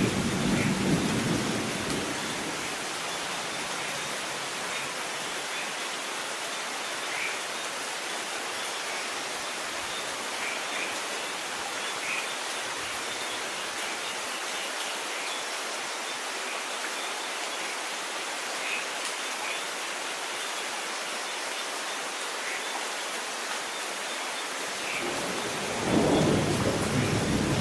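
Steady rain falling, an even hiss with scattered drops ticking through it. A low roll of thunder is dying away as it begins, and another rumble of thunder builds about two seconds before the end.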